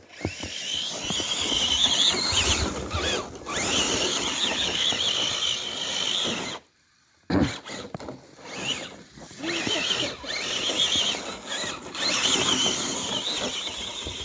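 Electric motors and gears of RC crawler trucks whining high as they drive, the whine wavering with the throttle. It cuts out for a moment about halfway and then picks up again in uneven surges.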